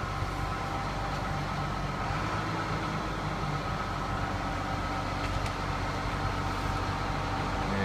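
Steady hum of a diesel truck engine idling, even in level with a constant low drone and no changes.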